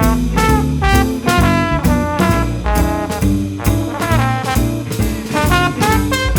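Jazz quintet playing an instrumental swing passage: a brass horn line over double bass and drums, with a steady beat.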